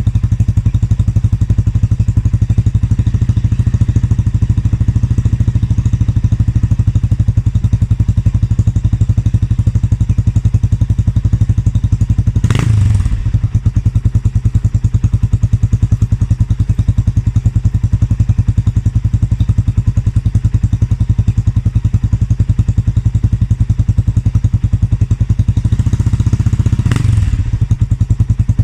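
Kawasaki Estrella's air-cooled single-cylinder engine idling through a Daytona steel aftermarket muffler, a steady pulsing exhaust beat with a deep low note. The throttle is blipped briefly twice, about halfway through and near the end.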